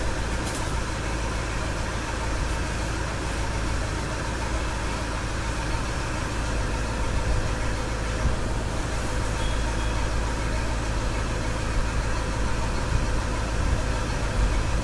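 Diesel engine of a 2011 Toyota Fortuner idling steadily.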